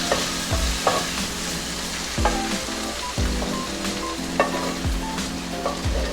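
Vegetables sizzling in a hot pan of sweet and sour sauce as they are stirred in, with scattered sharp clicks of a utensil against the pan. A backing track with a low, regular drum beat plays underneath.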